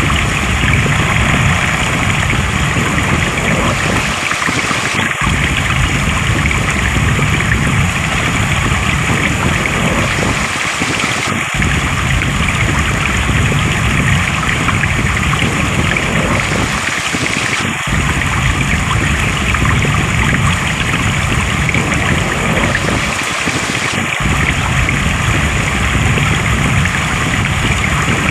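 Flowing stream water, a steady, full rush with a brief thinning of the low rumble about every six seconds.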